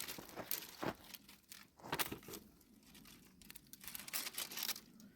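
Irregular rustling and crinkling with scattered small crackles, like dry material being handled.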